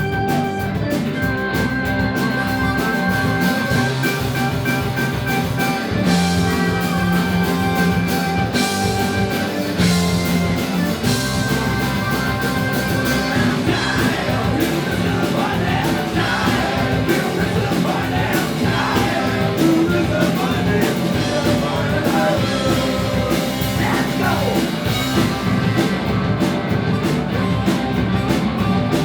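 Live rock band playing a song: drums, bass and guitar under long held chords.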